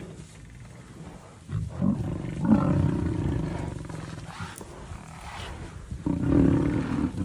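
Big cat roaring: a short call about a second and a half in, a longer one a second later, and another near the end.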